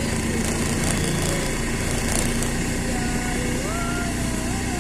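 Steady running of a motor vehicle's engine with road noise, unchanging throughout, with faint wavering tones over it.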